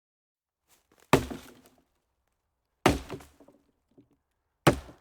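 Three hard knocks, evenly spaced about two seconds apart, each dying away quickly.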